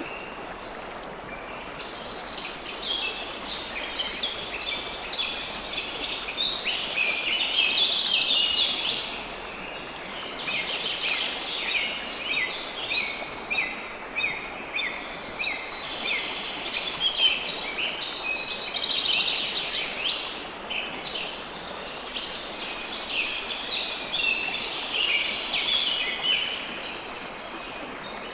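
River water flowing steadily, with birds chirping over it in waves of quick, high notes.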